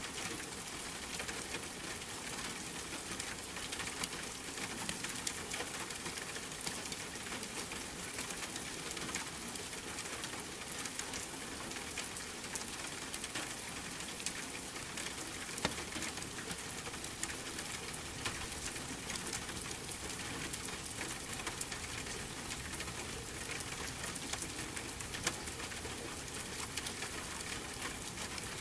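Steady rain hissing, with a wood fire crackling in scattered sharp pops over it.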